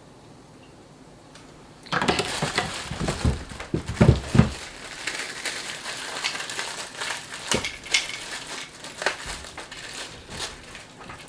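Packaging crinkling and rustling as an accessory is unwrapped by hand, starting about two seconds in, with a few knocks from handling between two and four and a half seconds in.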